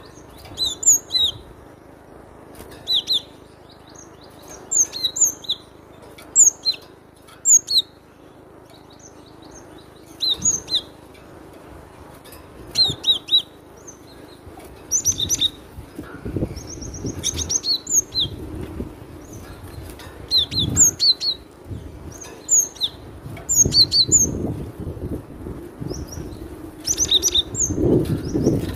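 Cinereous tit (glatik batu) singing loudly: short phrases of sharp, high, repeated notes every second or two, over a low steady background noise.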